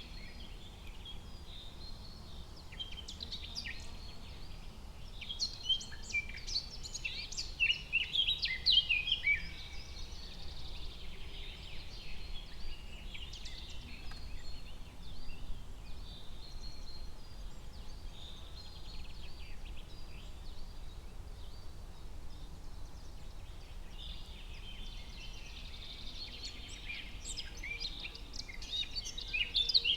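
Forest ambience of many small birds chirping and singing. The song is busiest in the first third and again near the end, thinner in the middle, over a faint steady low rumble.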